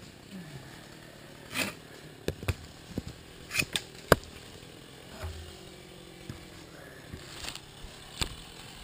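Handling noise on a GoPro camera: about a dozen irregular clicks and knocks with a few short scrapes, the sharpest about four seconds in. No motor is running.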